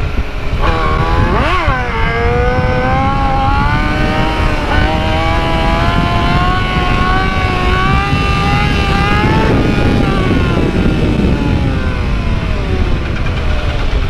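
Yamaha YZF-R6's inline-four engine accelerating hard. The revs shoot up and drop at a gearshift about a second and a half in, then climb steadily for several seconds. Near the end the throttle is rolled off and the revs fall away.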